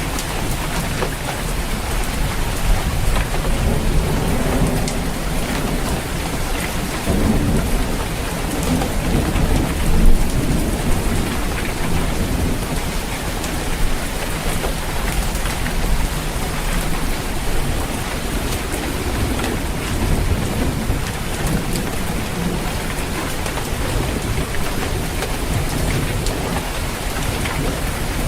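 Steady rain pattering on a roof, with low rolls of thunder rumbling under it that swell now and then.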